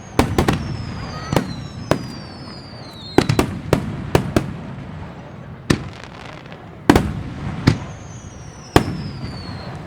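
Aerial fireworks going off: a rapid, irregular series of sharp bangs, with several high whistles falling slowly in pitch between them.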